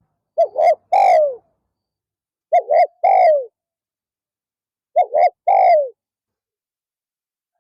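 Spotted dove cooing: three phrases about two and a half seconds apart, each two short coos followed by a longer coo that falls in pitch.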